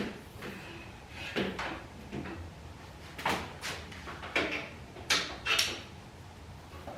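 Handling noise: a series of separate knocks and clunks, about seven in all and loudest about five seconds in, as equipment is moved and set down.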